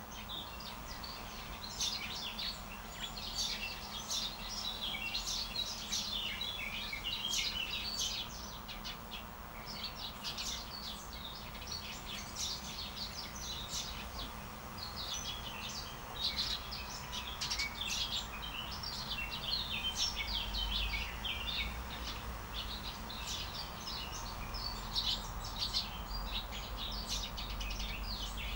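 A flock of parrots chirping and chattering, many short high calls overlapping without a break.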